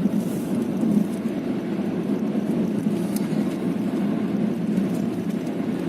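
Steady engine and road noise inside the cabin of a car moving at speed.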